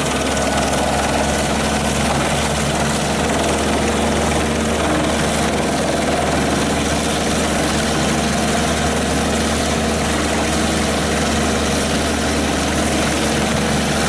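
Heavy diesel engine of forestry machinery running steadily, with a constant low drone under a wide mechanical hiss.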